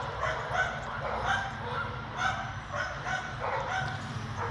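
An animal calling in short, repeated high yelps, a few a second, over a low steady rumble.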